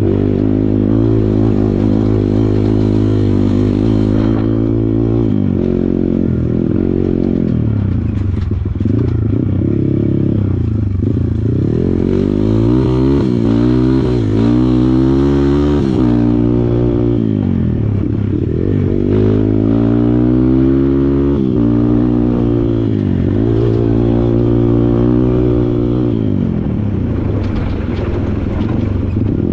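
Kawasaki KLX140 dirt bike's single-cylinder four-stroke engine revving up and down over and over as the throttle is opened and closed, with its pitch rising and falling every second or two.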